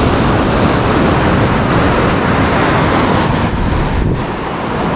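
Steady rush of waves breaking on the shore, with wind buffeting the microphone; it eases slightly near the end.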